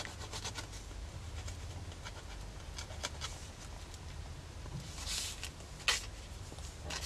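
Faint scratching and ticking of a white Pilot pen tip moving over a paper craft tag as words are outlined, with two louder brief sounds about five and six seconds in.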